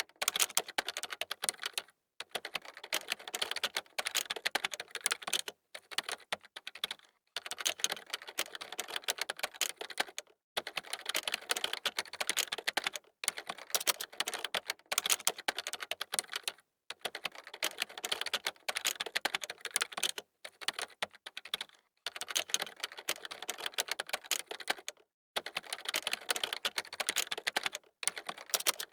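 Fast typing on a computer keyboard: dense runs of rapid key clicks, broken every two to four seconds by a brief pause.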